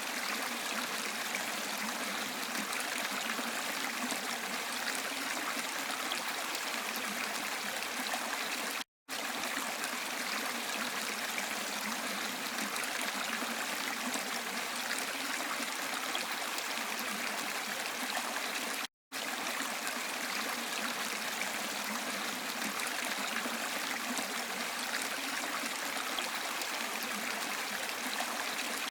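Steady rush of falling water from a waterfall and rain, an even hiss with no single drops standing out. It cuts to silence for an instant twice, about ten seconds apart, where the looped recording joins.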